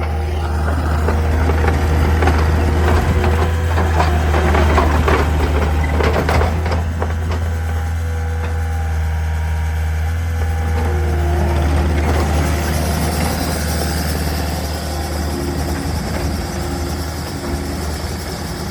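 Takeuchi TL250 track loader's diesel engine running steadily, with a rattling clatter between about two and seven seconds in and a whine that shifts in pitch several times.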